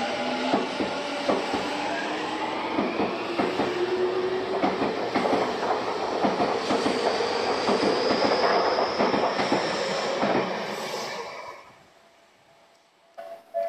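Tokyu electric commuter train running through the station without stopping: a rapid clatter of wheels over the rail joints, with an electric motor whine that rises in pitch as it picks up speed. Near the end, after a short quiet, a railway level-crossing bell starts ringing with evenly spaced dings.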